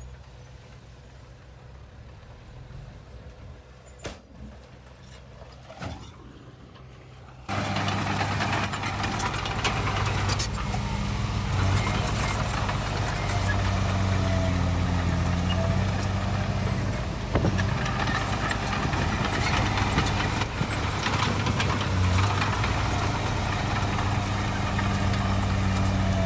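Heavy diesel earthmoving machinery engine running steadily, cutting in suddenly about seven seconds in after a quiet stretch with two faint knocks.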